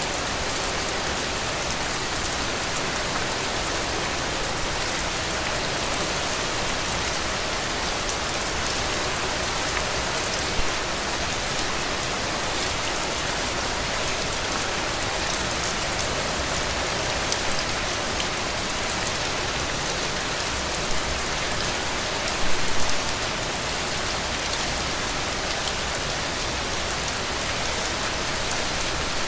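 Heavy rain falling in a steady, dense hiss of drops. A few brief louder spatters stand out, the biggest just past two-thirds of the way in.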